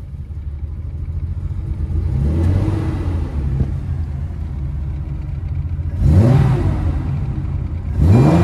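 Nissan Skyline C110 'Kenmeri' L-series engine running, heard from inside the cabin. It picks up a little about two seconds in, then is blipped twice, about six and eight seconds in, with quick revs that rise and fall straight back.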